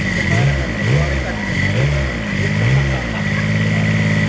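Rebuilt Kubota diesel engine revved four times in quick succession, each blip rising and dropping back, then settling to a steady idle about three seconds in. A steady high-pitched whine runs alongside the engine.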